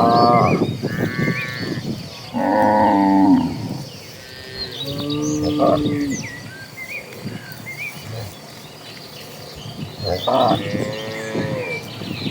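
Cattle mooing several times in turn, the loudest call a little over two seconds in and another near the end. Small birds chirp faintly between the calls.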